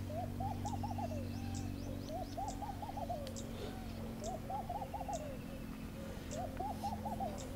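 A bird calling over and over in quick runs of four or five short hooting notes, about one run a second, over a steady low hum.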